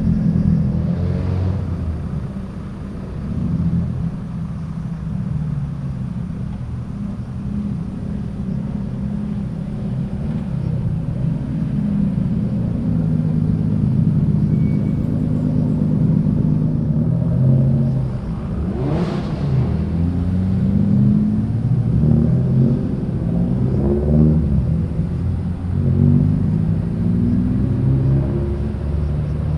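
Cars driving off one after another, their engines rumbling and rising and falling in pitch as they rev and pull away. About two-thirds of the way through, one brief sharp burst stands out.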